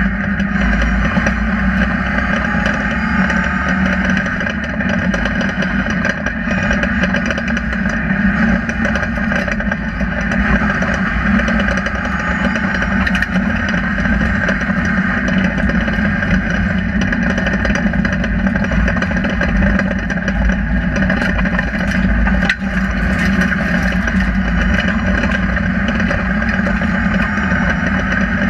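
Rally car's engine running hard, heard from inside the cabin, its revs rising and falling as it is driven along the stage. A single sharp knock about three-quarters of the way through.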